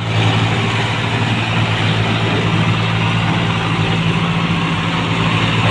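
New Holland 3630 tractor's diesel engine running steadily with an even, low drone.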